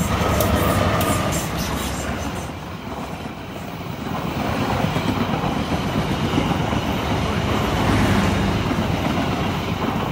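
A train passing at a crossing: a steady rumble and clatter of its wheels running over the rails.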